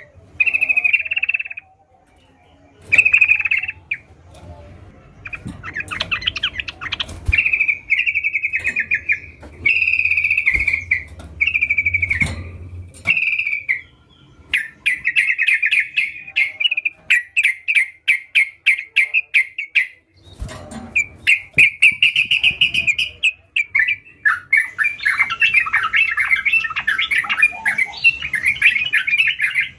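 Yellow-vented bulbul (trucukan) singing vigorously: a series of short, bright, chattering phrases with brief gaps, running together into a busier, almost continuous warble near the end.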